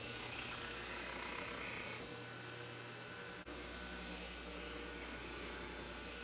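Steady low hiss with an electrical hum underneath, broken by a brief dropout about three and a half seconds in.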